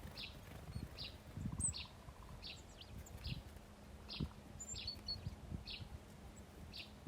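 Small songbirds chirping at a bird feeder: short, high chirps repeated roughly once or twice a second. Dull low knocks and rumble sound under them, loudest about a second and a half in and about four seconds in.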